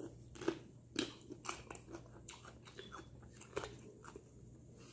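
Close-miked mouth sounds of eating Hot Cheeto-crusted frog legs: crisp, irregular crunches and chewing, with a few sharper bites.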